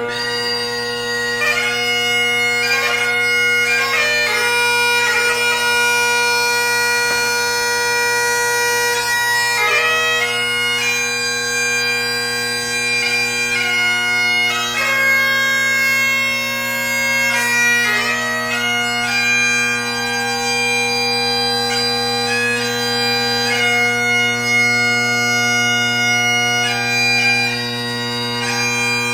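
Solo Great Highland bagpipe: the drones sound a steady, unbroken chord beneath a chanter melody that moves from note to note with quick gracenote ornaments.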